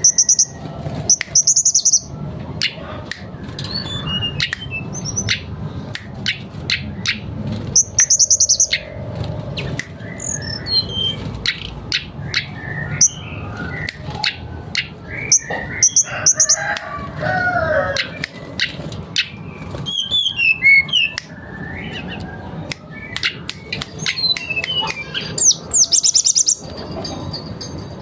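Mangrove blue flycatcher (tledekan bakau) singing continuously: a long, varied song of quick high chips and falling whistled notes, broken several times by bursts of rapid high trills.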